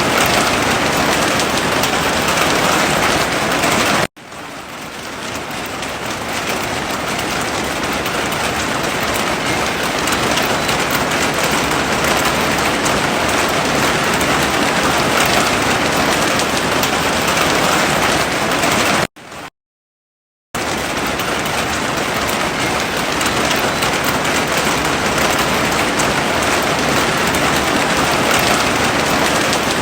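Heavy rain falling in a dense, steady hiss. It cuts out abruptly about four seconds in and swells back over a couple of seconds, then drops to silence for about a second and a half past the middle before coming back.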